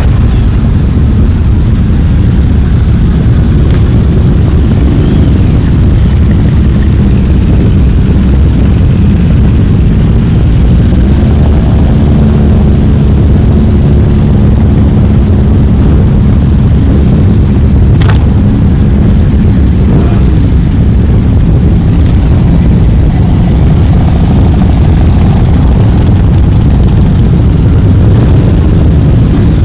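Many motorcycle engines running together in a loud, steady rumble, with a single sharp knock about eighteen seconds in.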